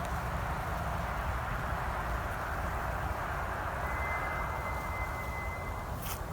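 An unidentified thin, steady high whistle at one pitch, starting about four seconds in and lasting about two seconds, over a steady rushing background noise, with a short click just after the whistle stops.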